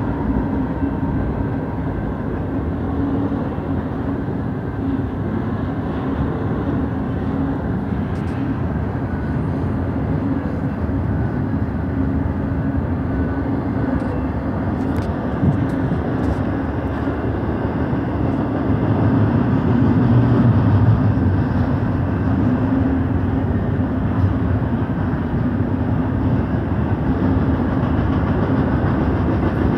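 Double-stack intermodal freight train rolling past: a steady rumble of steel wheels on rail, with a sharp click about halfway through and a slight swell in loudness about two-thirds of the way in.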